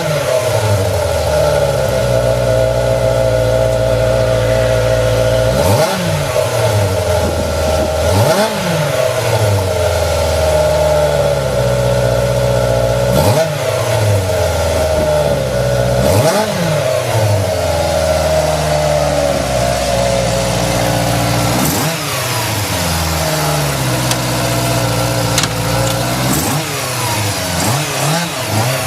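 Suzuki GSX-R400 (GK71B) inline-four engine running through its muffler, idling steadily between about seven quick throttle blips that rise and fall back to idle.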